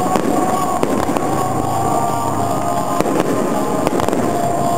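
Aerial fireworks display going off continuously, a dense barrage of noise with several sharp bangs standing out from it.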